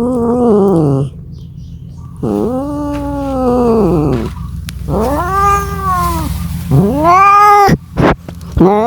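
Domestic cat yowling in a run of about five long, drawn-out calls, each rising and then falling in pitch, with short breaks between them. These are mating calls, the caterwaul of a cat calling for a mate.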